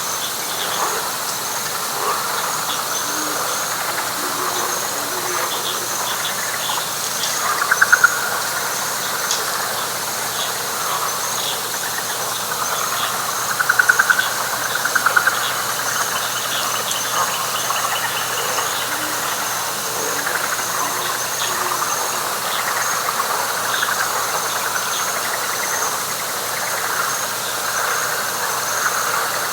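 Night chorus of frogs and insects in a swampy pine flatwoods: a continuous high pulsing insect buzz over a dense mix of frog calls. A louder, rapid pulsed frog call stands out about 8 seconds in, and again twice near the middle.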